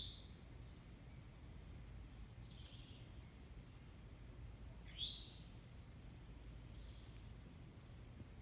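Wild birds calling: two louder upward-slurred calls, one at the start and one about five seconds in, with short high chirps scattered between, over a faint steady low rumble.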